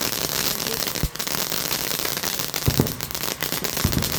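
Firework crackling steadily, a dense stream of small rapid crackles with a few louder pops about a second in, near the middle and near the end.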